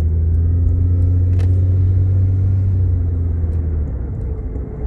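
Car's steady low rumble, easing off near the end, with a single click about a second and a half in.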